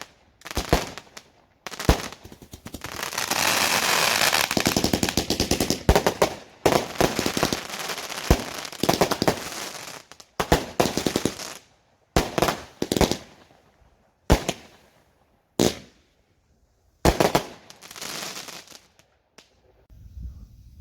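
Fireworks going off: a rapid string of bangs and crackling lasting a few seconds, then separate bursts of bangs and crackle, dying away near the end.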